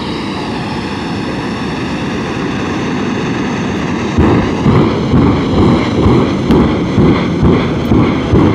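Stunt aircraft engine droning overhead, its pitch sagging slightly early on and then holding steady. From about four seconds in, loud pulses come roughly twice a second.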